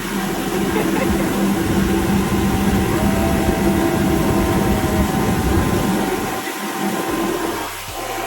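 A motor running steadily under loud rushing noise, with a few steady hum tones; the noise dips briefly near the end.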